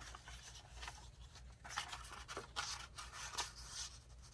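Faint irregular rustling and scraping of paper pieces being handled and slid into place.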